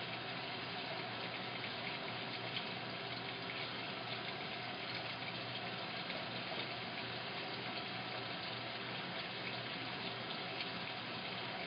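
Washing machine filling with water: a steady rush of water running into the drum.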